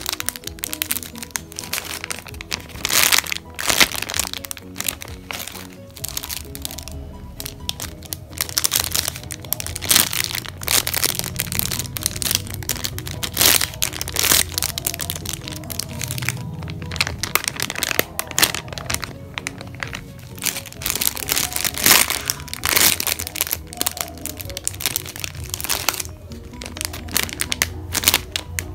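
Plastic packaging crinkling and crackling in irregular bursts as bagged squishy toys are handled, over steady background music.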